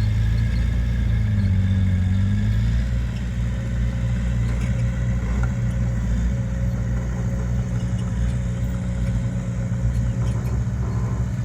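Heavy diesel engine of earthmoving machinery (bulldozer or dump truck) running with a low, steady drone; its pitch dips and rises during the first couple of seconds as the load changes, then holds steady.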